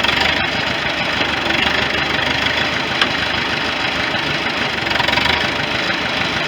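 1973 International 3444 loader tractor's engine running steadily while the loader works the bucket into a pile of wood chips for a scoop.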